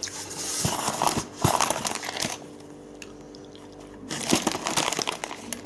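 Packaging crinkling and rustling as sewing machine accessories are unpacked by hand, in two bouts with a quieter pause in the middle.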